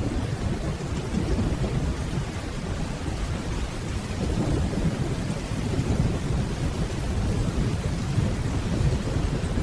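Steady rainfall over a continuous low rumble of distant rolling thunder that slowly swells and eases.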